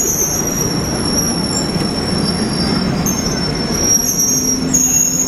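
Passenger train running at speed, heard from on board: a steady loud rumble of wheels on rail, with thin high-pitched wheel squeal wavering over it.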